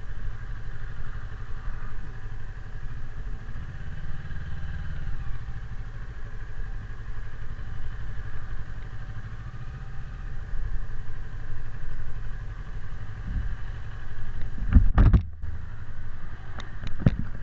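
Motorcycle engine running steadily while riding, its pitch rising and easing slightly as the throttle changes. A few sharp loud knocks come through near the end.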